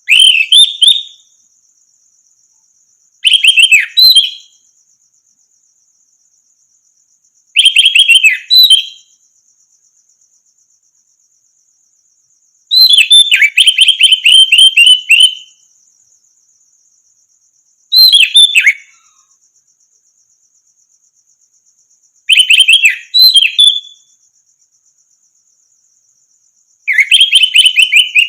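Orange-headed thrush (anis merah) singing in short, loud phrases of rapid varied notes, seven phrases spaced about four to five seconds apart, the fourth the longest. A steady high buzz runs underneath.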